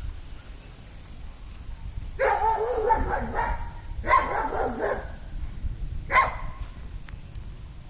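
Cats calling during a play fight: three wavering cries, the first and longest about two seconds in, another about four seconds in and a short one near six seconds.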